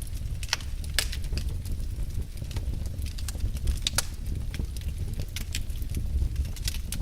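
Wood fire burning in a fireplace: irregular sharp crackles and pops over a steady low rumble, with louder pops about a second in and about four seconds in.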